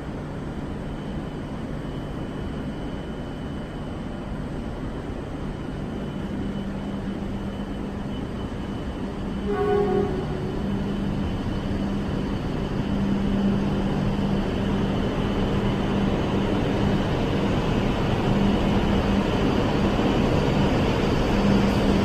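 Joetsu Shinkansen E7-series train standing at the platform with a steady electrical hum. About ten seconds in it gives a short departure horn blast, and the rumble of the train pulling away then grows steadily louder.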